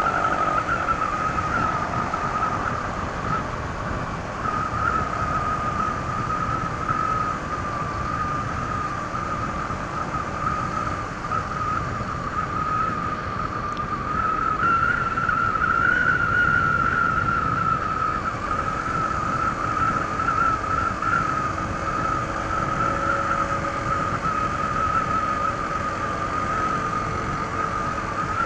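Honda ADV 160 scooter's single-cylinder engine running at cruising speed on its stock exhaust, under road and wind noise, with a steady high whine that wavers slightly. It gets a little louder and higher about halfway through, then settles.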